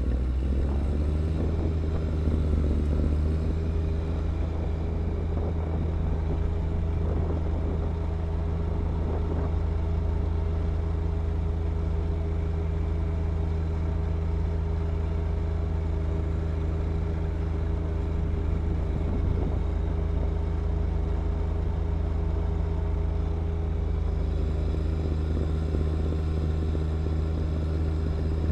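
John Deere 1025R compact tractor's three-cylinder diesel engine running steadily at working speed while driving a snow blower. Its pitch sags briefly near the start and recovers.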